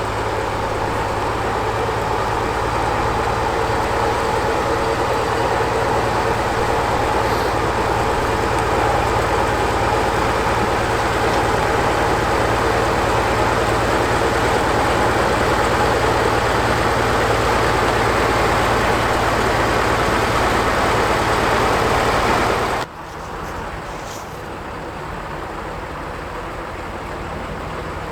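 Oliver tractor engine running steadily. About 23 seconds in the sound drops off sharply, leaving a quieter background hum.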